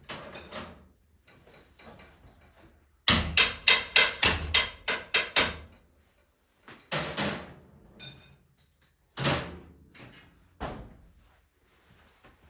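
Sharp knocks: a quick run of about ten, roughly four a second, then three or four single knocks, one with a short ringing tone.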